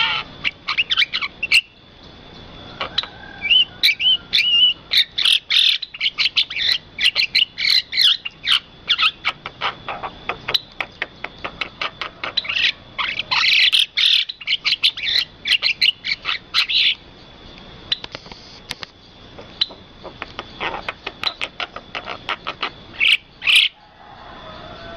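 Birds calling in quick runs of sharp chirps and chattering notes, busiest from about 3 to 10 seconds in and again from about 12 to 17 seconds in, over a thin steady high tone.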